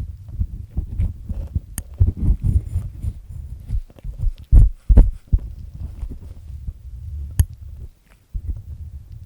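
Ear pick with a black triple-disc head grinding inside an ear canal to peel away earwax, heard close against the ear as low, rumbling scrapes with a few sharp clicks. The loudest rubs come about halfway through, and the scraping stops briefly near the end.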